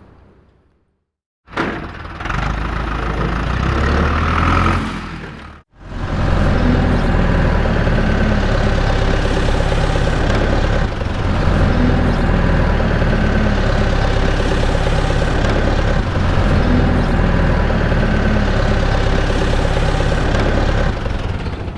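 An engine running steadily. The sound is cut into two pieces: a short stretch about 1.5 s in that grows louder, an abrupt break near 5.6 s, then a long even stretch.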